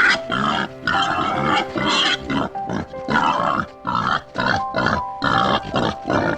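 A pig calling in a rapid run of short, harsh grunts and squeals, about two a second, over background music with steady held notes.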